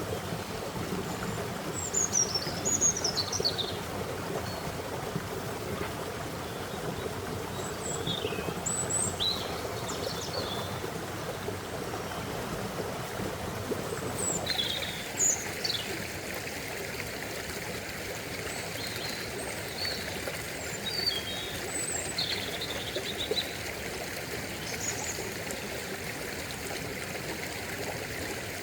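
Stream water flowing steadily, with small birds chirping now and then above it. About halfway through, the water sound changes abruptly to a brighter hiss.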